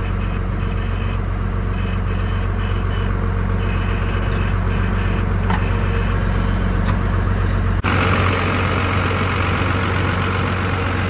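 Ford F700's 5.9 Cummins straight-six diesel idling steadily. About three-quarters of the way through, the sound changes abruptly and loses much of its deep low end.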